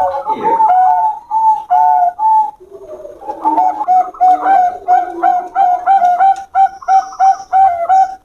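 Zebra doves of a Bangkok competition strain cooing: a fast string of short, repeated notes, dropping off briefly about two and a half seconds in, then resuming with overlapping calls from more than one bird.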